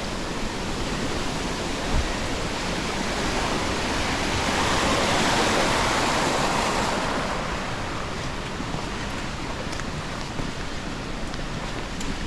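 Steady rush of falling water from a waterfall, swelling for a few seconds around the middle, then easing.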